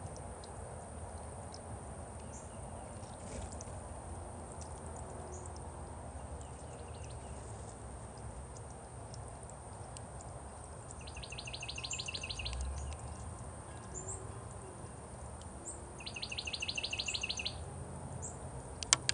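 Songbird singing two fast trills of rapidly repeated high notes, each about a second and a half long, with scattered faint chirps over a steady low outdoor background. A sharp click near the end.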